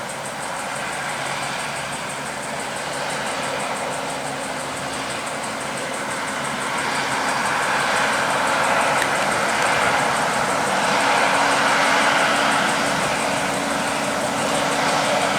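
Heavy trucks approaching on the road: steady tyre and engine noise with a low drone, growing gradually louder.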